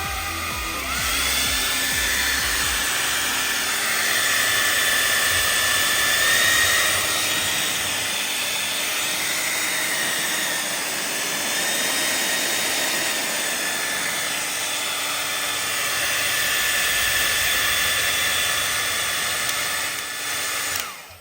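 Remington D5706 hair dryer running with a steady rush of air and a motor whine that shifts in pitch a few times. It starts about a second in and cuts off suddenly at the very end.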